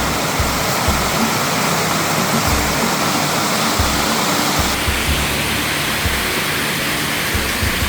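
Steady rushing noise of a nearby waterfall, with background music over it.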